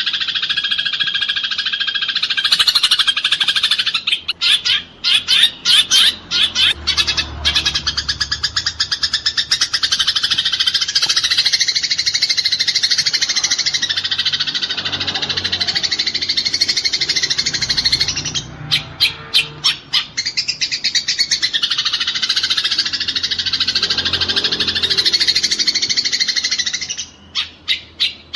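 Eurasian tree sparrows chattering in dense, rapid-fire calls: the harsh, agitated chatter of sparrows fighting. The chatter is nearly unbroken, breaking into quick stuttering bursts a few times.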